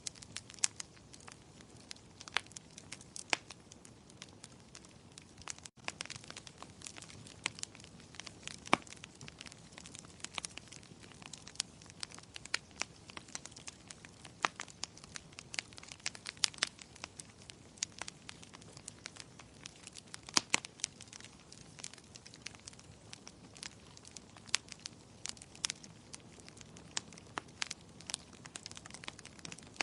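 Wood fire in a fireplace crackling: irregular sharp pops and snaps, a few much louder than the rest, over a soft steady hiss.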